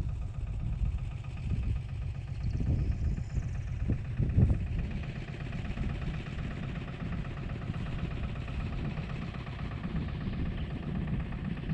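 Agria 8980 articulated tractor's engine running steadily, with a few short knocks about three to four and a half seconds in.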